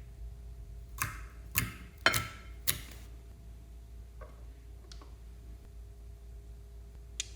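A series of sharp clicks: four loud ones in quick succession about a second in, then a few fainter ones further apart, over a low steady hum.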